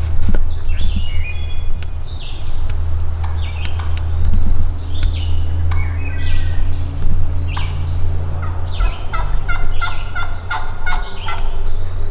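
Wild turkey gobbling and calling repeatedly, with songbirds chirping over a steady low rumble.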